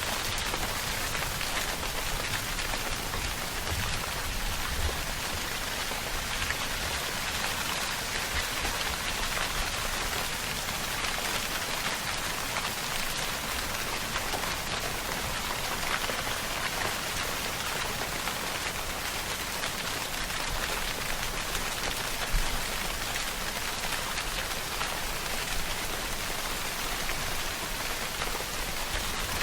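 Steady rainfall with dense drops pattering on a surface, an even hiss, with one slightly louder drop tick about 22 seconds in.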